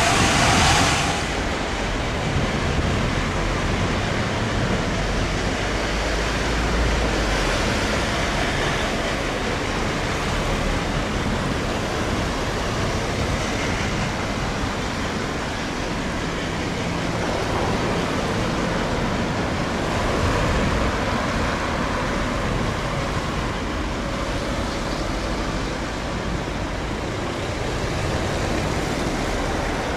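Steady rushing rumble of a passing steam-hauled train, with no distinct exhaust beats; a brief louder hiss in the first second.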